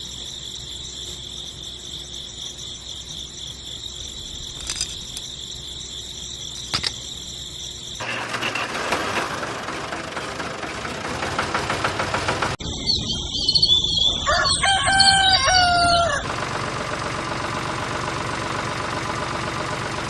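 A rooster crowing once, about two-thirds of the way through, over a steady rushing noise. Before it there is a steady high-pitched whine, and a steady noise carries on after it.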